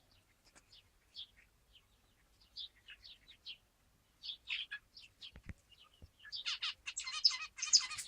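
Zebra finches calling: short high chirps scattered at first, then a dense, rapid run of overlapping calls from about six seconds in.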